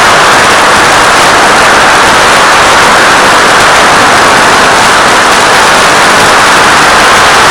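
Steady, loud hiss of static from a 1.3 GHz FPV video receiver's audio channel, an even rush with no tones or breaks.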